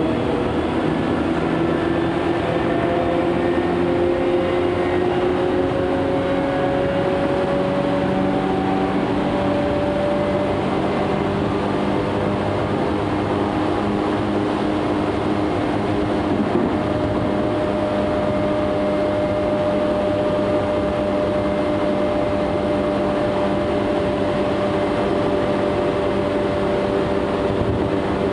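Tokyu 8500 series electric train running, heard from inside the passenger car: a steady rumble of wheels on rail under a motor whine that rises slowly in pitch over the first ten seconds or so as the train picks up speed, then holds steady.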